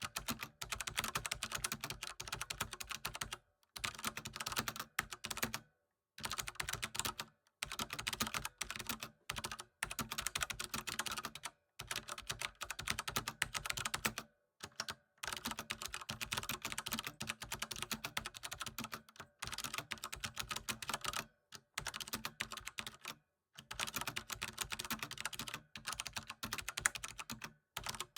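Computer keyboard being typed on in fast, continuous runs of key clicks, broken by brief pauses every few seconds.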